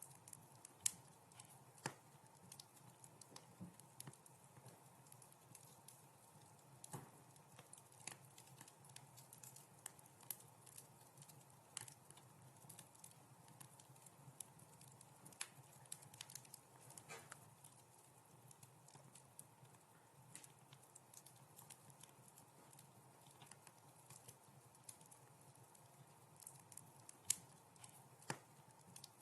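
Wood fire crackling in a fireplace: soft, scattered pops and snaps at irregular intervals over a faint steady hiss, with two louder pops about a second in and near the end.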